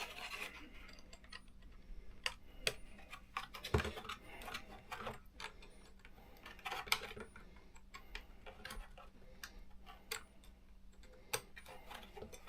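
Faint, irregular light clicks and taps of small screws, a screwdriver and plastic parts being handled while the rear body mount of a small RC truck is unscrewed and refitted.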